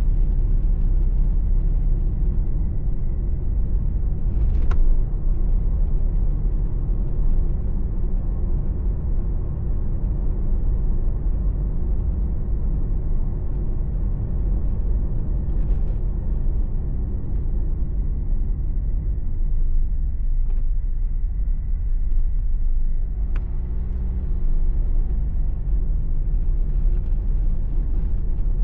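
Car driving, heard from inside the cabin: a steady low engine and tyre rumble with road noise. Two brief sharp clicks come about five seconds in and again near 23 seconds.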